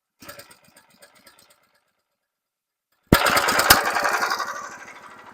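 Small gasoline engine of a portable band sawmill running. It is barely heard at first, then cuts in suddenly and loudly about three seconds in with an even firing rhythm, easing off after a second or so.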